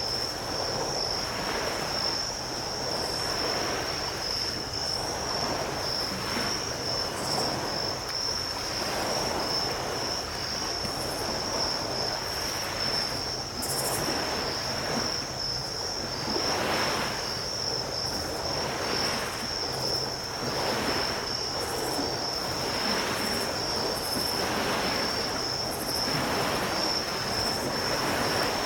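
Ocean surf: small waves breaking and washing in one after another, with a steady high-pitched chirring of insects over them.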